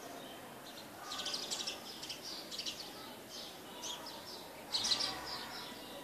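Small birds chirping and twittering, with many short, high chirps in quick clusters; the loudest cluster comes about five seconds in.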